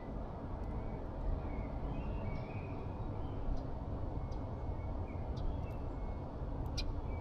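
Steady low rumble of outdoor background noise with faint, scattered small-bird chirps.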